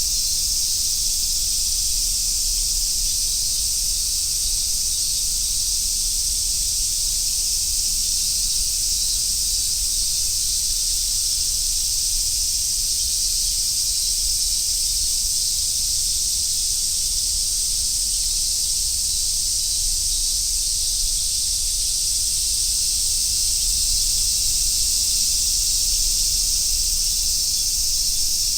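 A dense chorus of cicadas giving one steady, high-pitched, unbroken buzz.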